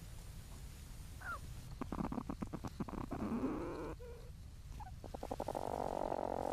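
Young platypuses moving about in their nesting burrow, recorded close up inside the chamber: rapid scratching and scuffling against the earth, with a couple of brief squeaky calls.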